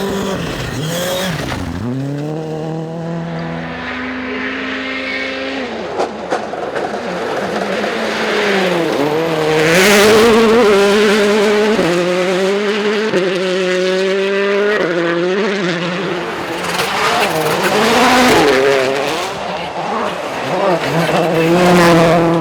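Rally car engine driven hard at high revs, its pitch climbing and dropping through quick gear changes, with louder surges about halfway and again near the end.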